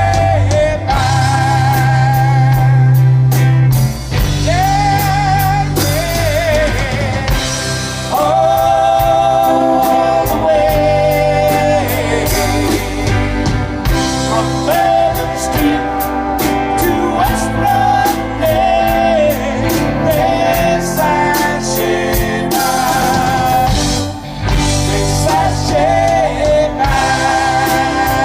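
Live rock band playing, with sung vocals over drum kit, bass and electric guitar.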